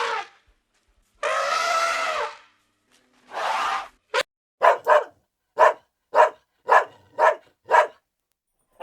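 An animal calling: two long pitched calls, then a run of eight short calls at about two a second.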